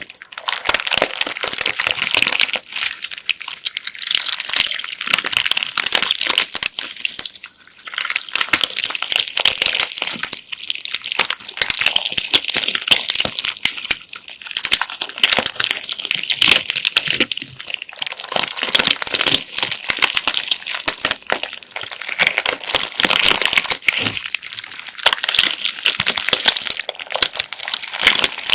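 Hands squeezing and kneading bead-filled slime: a dense crackling of small clicks and squishes as the beads shift and pop in the slime, broken by a few short pauses.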